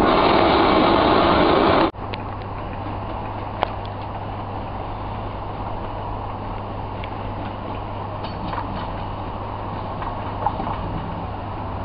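Loud, steady running noise from a Class 90 electric locomotive standing alongside. It cuts off abruptly about two seconds in and gives way to a quieter steady low hum with a few faint clicks as a diesel multiple unit approaches along the line.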